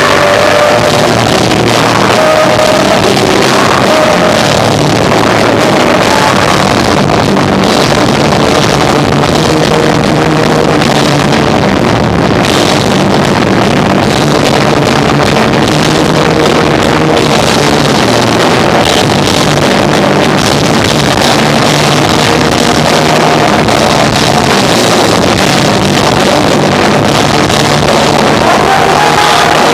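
Live rock band of electric guitar, bass and drums playing loud and distorted, the recording overloaded and muddy.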